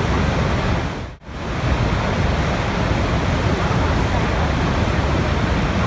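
Continuous rushing water, a dense steady wash with a strong low rumble. It dips sharply and almost cuts out for a moment about a second in, then returns at full level.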